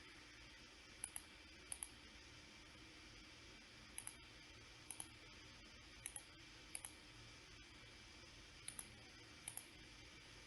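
Computer mouse buttons double-clicked eight times, a second or two apart, over faint steady hiss.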